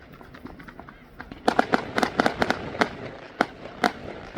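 Fireworks going off: a quick string of sharp cracks about one and a half seconds in, then single bangs spaced apart near the end.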